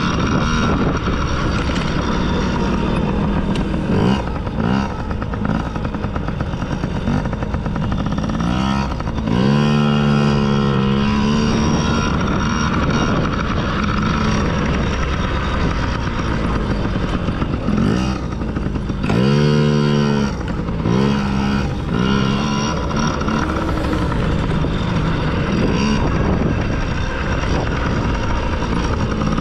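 Dirt bike engine running hard on a motocross track, its pitch rising and falling as it revs up and backs off, with the biggest swells about ten and twenty seconds in.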